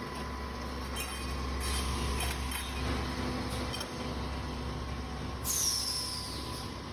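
Automatic copper tube end forming and flattening machine running: a steady low hum and a constant whine, with scattered clicks and clinks of the working cycle. A loud hissing burst with a falling whistle comes about five and a half seconds in.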